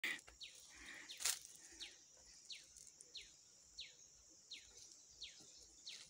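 A faint bird call: one short, falling note repeated about once every 0.7 seconds, over a steady high insect hiss. One sharp click comes about a second in.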